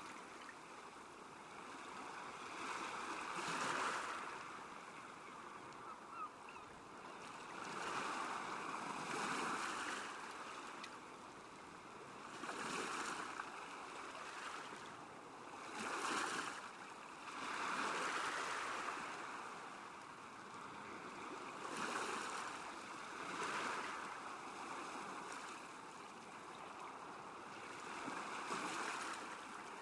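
Small waves lapping at a lake shore, each wash swelling and fading every two to four seconds.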